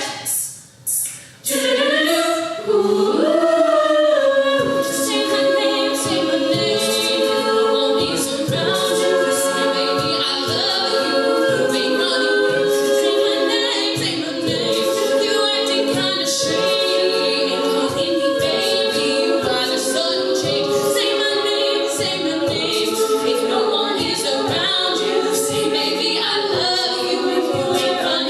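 Treble a cappella group singing close-harmony chords, with a vocal percussionist beatboxing a steady beat underneath. A few sharp percussive hits come first, and the voices come in about two seconds in.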